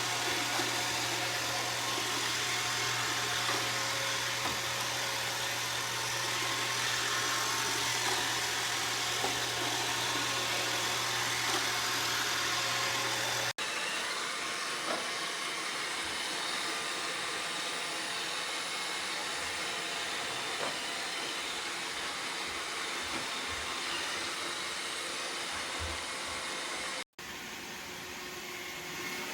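iRobot Roomba 692 robot vacuum running steadily while cleaning, a continuous whirring hiss of its motor and brushes. A low hum under it stops about halfway, where the sound breaks off for an instant, and it breaks again briefly near the end.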